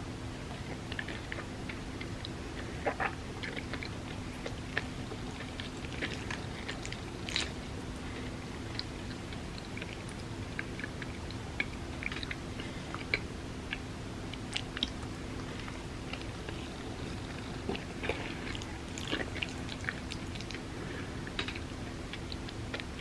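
Close-miked chewing of soft, creamy rice pudding: scattered wet mouth clicks and smacks, a few louder than the rest, over a faint steady hum.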